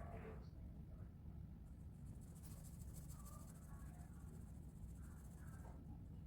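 Faint scratching of coloring on paper over a low steady hum.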